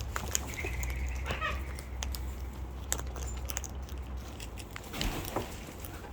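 Birds pecking and cracking seed with many short sharp clicks, and two short calls, one about a second in and one near the five-second mark, both falling in pitch.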